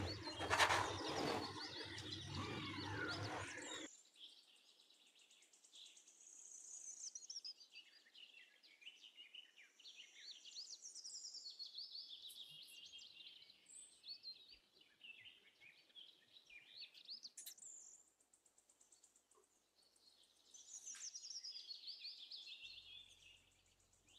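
Faint birdsong: high chirping and warbling calls in irregular runs. In the first few seconds it is covered by a metal bench scraper knocking and scraping on the board as dough is cut.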